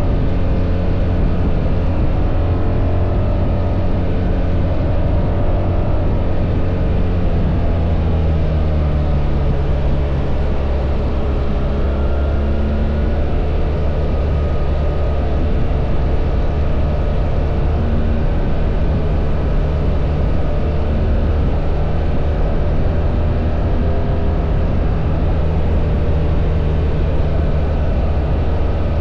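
BMW R1300 GS boxer-twin motorcycle engine running steadily under way, its pitch drifting a little with the throttle, over road and wind noise.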